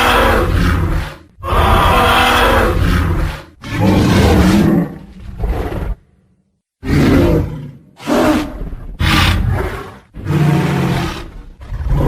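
Tyrannosaurus rex roar sound effects: a series of deep, rumbling roars and growls, one to two seconds each, with a short silent break about halfway through.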